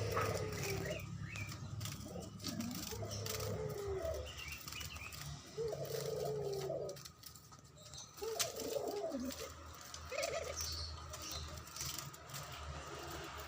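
Pet doves cooing, a low wavering coo repeated about every one to three seconds, with a few faint higher chirps in between.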